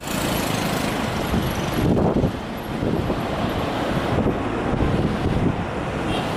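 Wind buffeting the microphone, a gusty low rumble that swells and eases every second or so.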